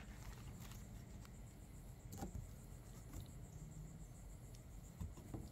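Faint handling noises: a few light, scattered clicks and rustles over a low, steady background rumble.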